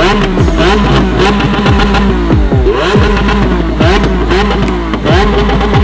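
Engines of a modified Nissan GT-R R35 and a Lamborghini Aventador revving in a rev-off, the revs climbing and dropping again about once a second.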